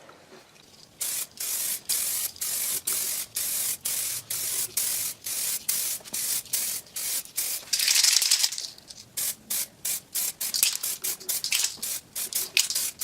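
2K clear coat aerosol spray can hissing in short bursts, roughly three a second, starting about a second in, with a few longer, louder sprays midway and near the end.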